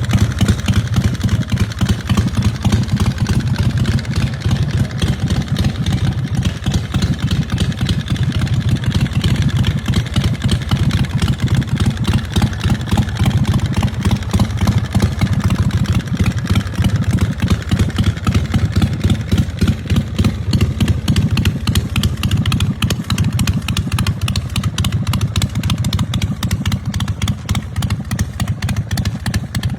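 A 2004 Stone Customs chopper's 100-cubic-inch S&S V-twin engine, fed by a Super G carburetor, running steadily with a fast, throbbing firing pulse.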